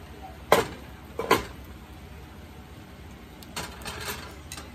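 Two sharp knocks of cookware on the stove, less than a second apart, followed by a softer scraping sound near the end.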